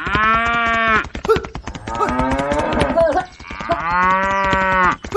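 Cattle mooing: two long, steady calls of about a second each, one at the start and one about four seconds in, with a shorter wavering call between them, over rapid ticking.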